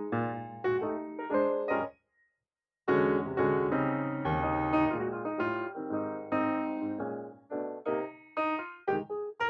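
Background piano music, notes played in quick succession. It cuts out completely about two seconds in and comes back under a second later.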